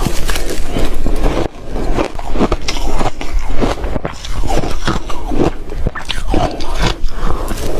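Loud, close-up crunching of soft reshaved refrigerator ice being bitten and chewed in big bites, one crackling crunch after another with a couple of brief pauses.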